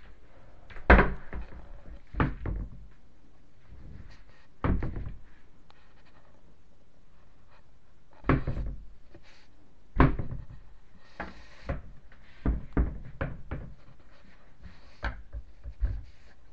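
Irregular knocks and clunks of work on a kitchen cabinet's pull-out basket and its rails: about a dozen sharp strikes at uneven spacing, the loudest about a second in and about ten seconds in.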